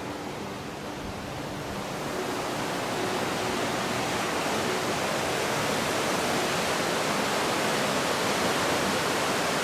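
Flood-swollen creek's rushing water, a steady roar that swells about two seconds in and then holds. The creek is running higher than ever, scouring the streambed.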